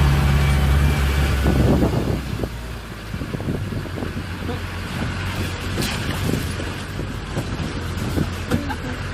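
A vehicle's engine running with a loud, steady low hum that drops away about two seconds in. It is followed by irregular rattling and knocking over a quieter low hum.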